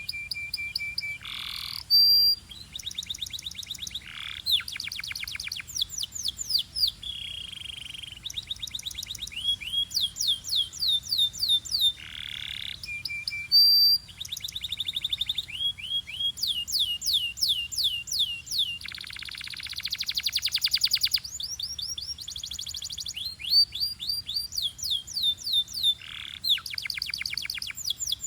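Belgian canary singing: phrase after phrase of fast, high repeated notes, rising slurred notes and rapid rolling trills, with short breaks between phrases.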